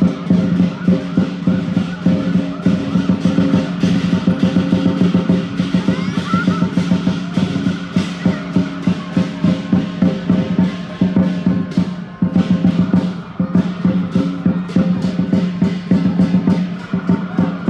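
Lion dance percussion: a large drum beaten in a fast, steady roll with ringing cymbals and gong. The drumming briefly eases about twelve seconds in, then picks up again.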